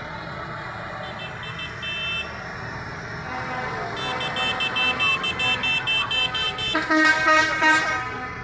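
Vehicle horns tooting over the low rumble of passing engines: a rapid series of high-pitched beeps, then a louder, fuller horn blast near the end.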